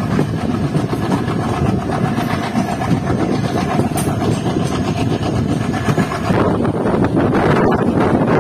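Diesel-hauled passenger train running at speed, heard from an open coach doorway: a steady rumble of wheels on the track that grows louder about six seconds in.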